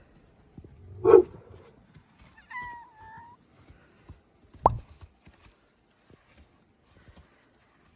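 Short calls from a domestic animal: a loud short call about a second in, a brief wavering call between two and three seconds, then a sharp click near the middle.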